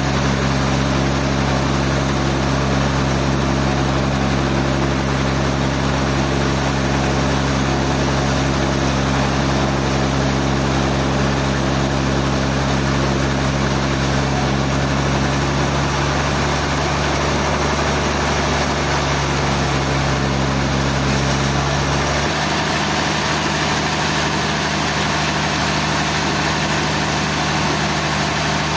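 A large engine running steadily under a constant mechanical noise. A little over twenty seconds in, its deepest rumble drops out and the tone shifts slightly.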